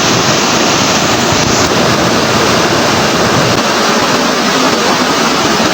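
Steady, loud rush of flowing water, an unbroken even roar with no surges.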